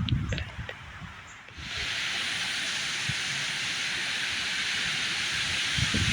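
Wind through the trees: a steady, even hiss that comes up suddenly about a second and a half in and holds, after some low rumbling of wind on the microphone.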